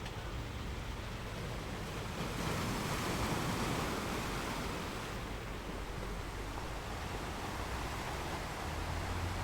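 Sea waves washing on a shore, a steady surf hiss with one wave swelling and breaking about two to four seconds in, then receding.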